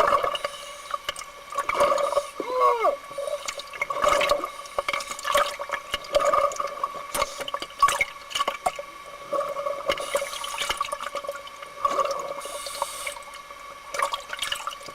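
Underwater bubbling from scuba divers breathing out through their regulators, coming in irregular bursts every second or so, with sharp clicks.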